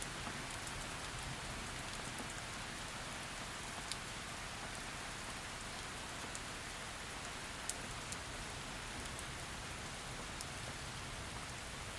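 Heavy rain falling steadily, an even hiss with scattered sharp drip ticks, the loudest of them about four seconds in and just under eight seconds in.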